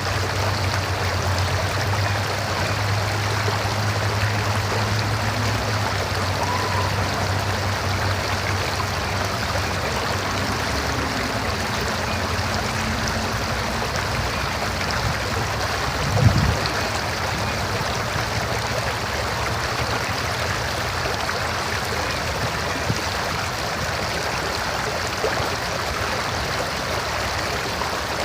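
River water flowing steadily, an even, unbroken rushing. A low hum sits under it for the first eight seconds or so, and a single low thump comes about sixteen seconds in.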